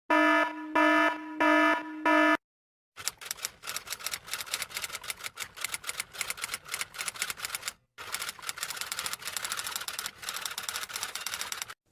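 Four short electronic beeps, then rapid typewriter or keyboard typing clatter that runs on for several seconds with a brief pause in the middle.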